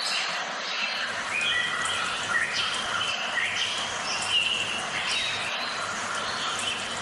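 Several birds chirping and calling at once, short whistled notes overlapping over a steady background hiss.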